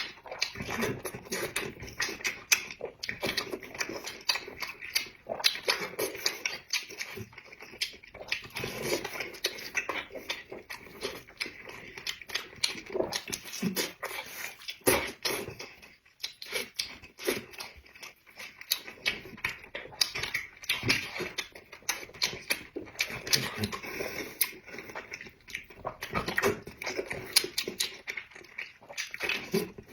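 Close-miked chewing and mouth smacking of a person eating, a dense run of quick wet clicks and bites.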